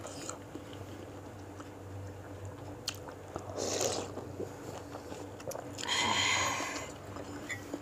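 A person chewing bits of beef meatball soup (bakso), heard up close, with a louder stretch of eating noise about six seconds in.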